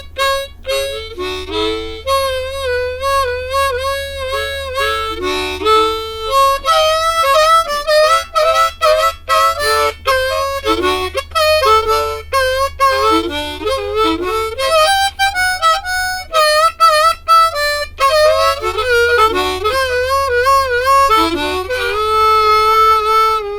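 Harmonica solo playing a bluesy melody of many short bent and trilled notes, ending on a long held note near the end, over a steady low hum.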